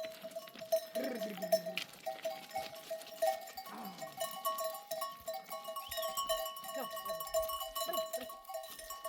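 Flock of sheep and goats with bells ringing steadily and overlapping, and a few animals bleating, each call falling in pitch.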